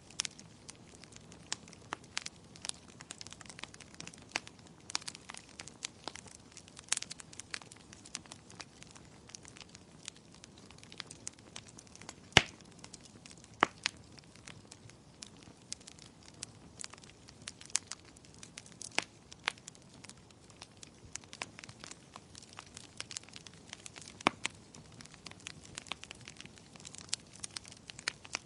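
Fire crackling in a fireplace: irregular sharp pops and snaps over a faint steady hiss, with one loud pop about halfway through.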